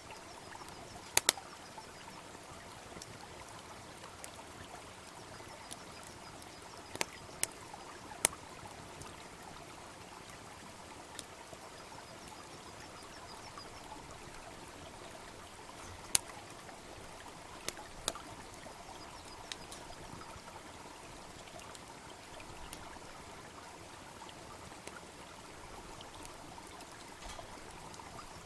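Wood bonfire crackling, with scattered sharp pops, over the steady rush of a babbling brook. The loudest pops come a second in, around eight seconds and around sixteen to eighteen seconds.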